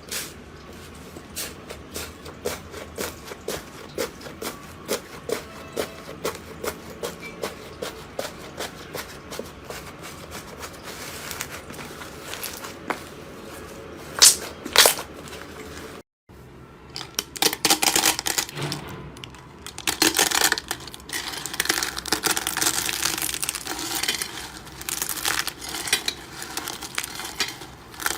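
Slime being squeezed and poked by hand, making many small clicks and pops, with two louder pops about 14 seconds in. After a brief break about 16 seconds in, the sounds turn denser and crackly.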